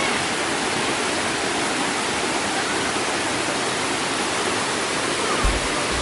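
Waterfall rushing steadily, a dense even wash of falling water. A low rumble joins in near the end.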